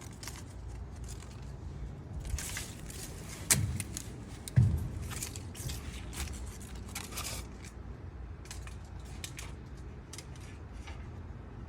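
Metal clicks and light rattles of wiring and tools being handled at the tractor's battery, with two louder knocks about three and a half and four and a half seconds in.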